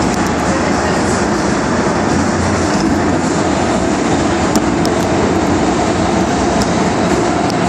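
Hong Kong MTR metro train running in the tunnel, heard from inside the car: steady running noise of wheels on rail and traction equipment, with light clickety-clack.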